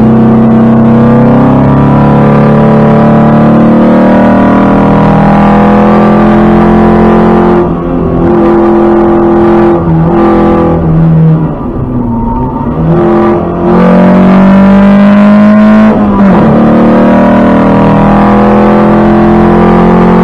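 Lancia Fulvia's narrow-angle V4 engine pulling hard, loud and steady under throttle. Its pitch climbs and then drops back briefly several times as the revs fall and pick up again, most sharply about sixteen seconds in.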